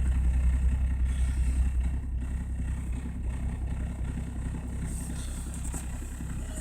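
Toyota Land Cruiser HDJ80's 1HD-T 4.2-litre straight-six turbo diesel idling steadily, running cold shortly after a start at −20 °C without block heating. The sound slowly grows quieter.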